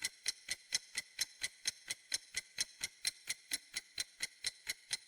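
Clock-style ticking sound effect counting down the thinking time on a quiz question: a steady run of even ticks, about four to five a second.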